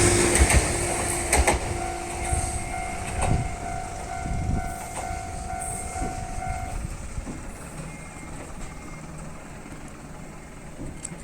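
Electric train of the JR Onoda Line passing the level crossing and moving away. The last of its horn dies out in the first second or so, the wheels knock over rail joints a few times, and the running sound fades steadily.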